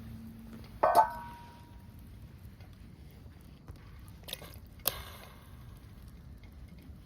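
A loud clink with a short ring, typical of a utensil or cup knocking against camp cookware, about a second in, then two sharp clicks near the five-second mark over a low steady background.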